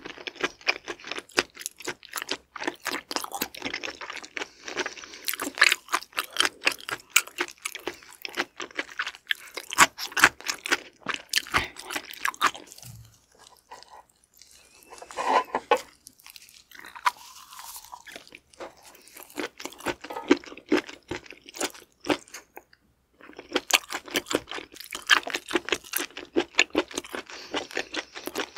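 Close-miked chewing of raw seafood: wet, crunchy chewing in long runs of rapid crunches, broken by a few short pauses.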